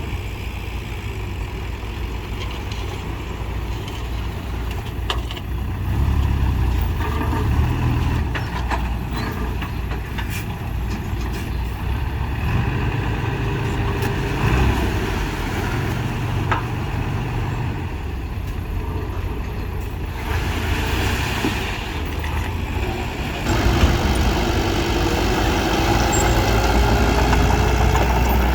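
Mini bulldozer's diesel engine running steadily, with scattered light clanks, getting louder near the end.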